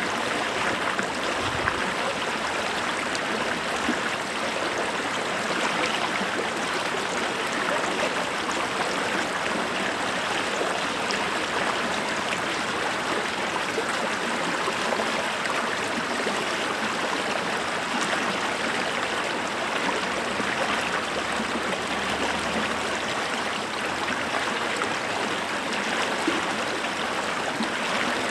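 Creek water flowing over stones, a steady, even rushing and babbling.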